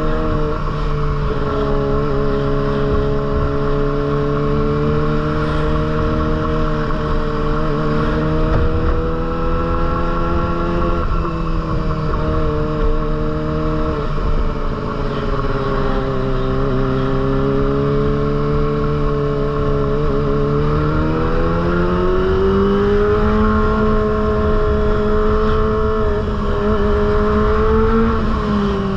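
Kawasaki ZX-25R's inline-four engine running through a Proliner aftermarket exhaust: one steady, continuous engine note. Its pitch sags slowly with two brief dips, then climbs about three-quarters of the way through and holds higher.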